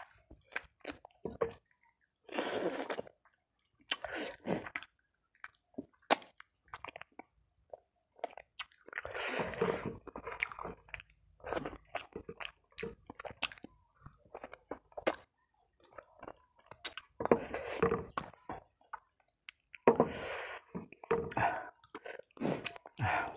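A person chewing fried chicken and picking it off the bone by hand, with wet mouth smacks and clicks, broken several times by a longer breathy rush of air.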